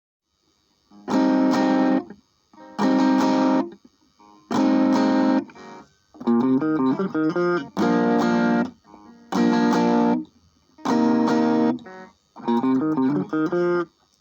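Electric guitar played through a Laney MINI-IRON mini practice amp: a string of chords, each strummed and cut off after about a second. Two of the phrases are broken into quickly picked notes.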